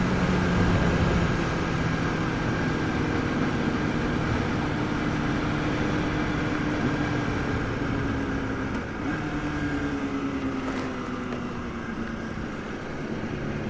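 Kawasaki ZX-6R 636 sport bike's inline-four engine running at a steady cruise under wind rush. The engine note sags a little and dips briefly about nine seconds in.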